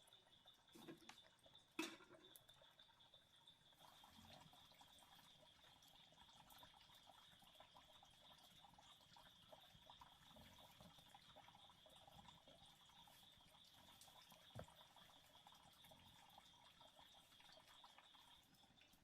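Faint night ambience: a steady, high-pitched insect trill, with a few soft drips or clicks, one about two seconds in and another near the end.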